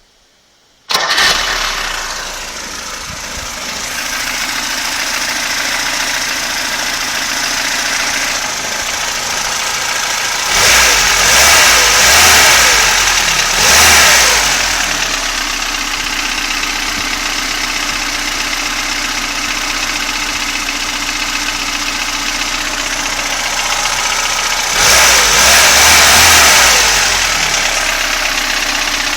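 Lada VAZ-2106's carburetted inline-four engine starting about a second in and settling into a steady idle. It is revved up briefly a few times around the middle and again near the end.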